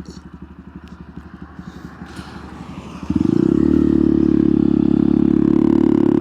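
Honda Monkey 125's single-cylinder four-stroke engine ticking over softly off the throttle. About three seconds in the throttle opens sharply and the engine holds a loud, steady pull in low gear.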